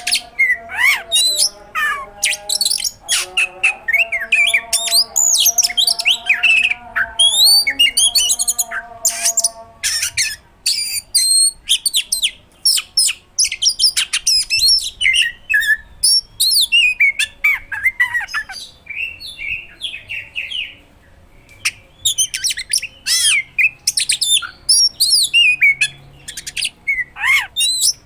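Oriental magpie-robin in full song: a fast, unbroken run of varied whistles, chirps and sharp, hard-hitting notes, broken by a brief pause about two-thirds of the way through.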